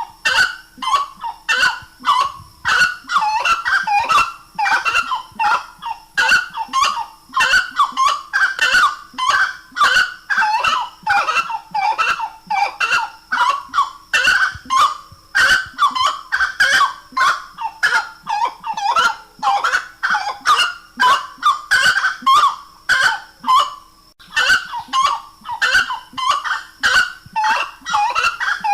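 Grey-cowled wood rail (saracura-três-potes) calling loudly in a continuous series of repeated notes, about two to three a second.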